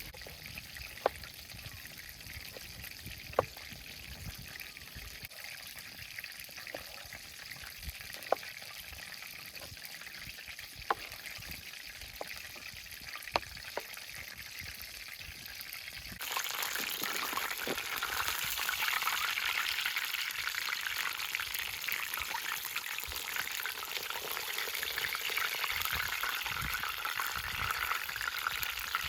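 Chicken deep-frying in hot oil. There is a low sizzle with a few sharp pops, and about halfway through the sizzling suddenly becomes much louder and denser.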